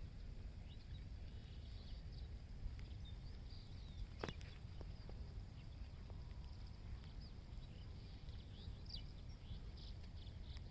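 Small birds chirping faintly and irregularly over a low outdoor rumble, with one sharp click about four seconds in.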